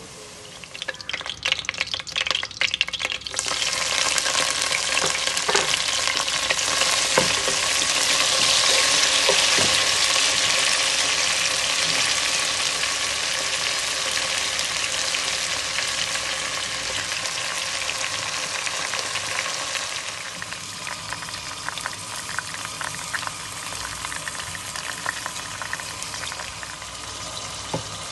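Food frying in hot oil in a non-stick pan, stirred with a wooden spatula. For the first few seconds there are scattered scraping clicks, then a loud sizzle starts suddenly about three seconds in and slowly eases off, with more stirring clicks near the end.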